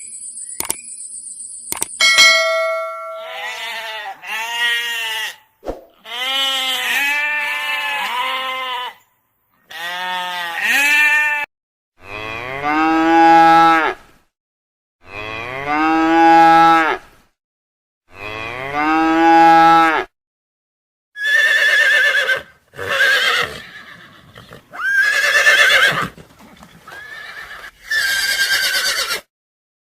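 Farm animals calling: a series of separate quavering calls, each one to two seconds long with short gaps between, several of them alike. In the last third the calls turn higher and rougher.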